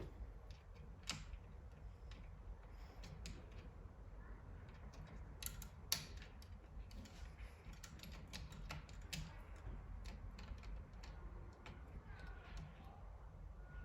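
Scattered small clicks and taps of metal parts and tools being handled while a Singer Curvy sewing machine is taken apart to replace its presser foot lifter, with one sharper click about six seconds in.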